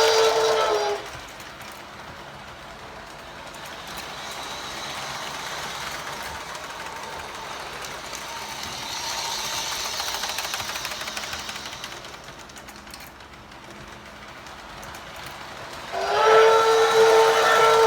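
Model train whistle giving a blast that ends about a second in, then the train's running noise on the track, swelling around the middle and easing off. A second whistle blast starts near the end.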